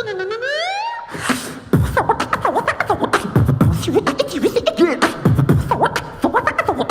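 Human beatboxing: a person's mouth and voice making a rising pitched glide, a short hiss, then a quick beat of kick-like thumps and sharp clicks mixed with squeaky bending vocal sounds.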